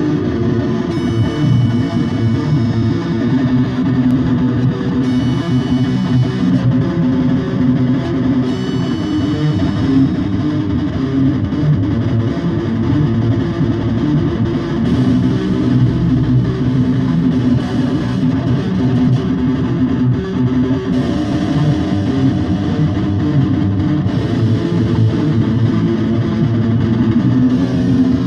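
A band rehearsing, with distorted electric guitar and bass guitar playing steadily.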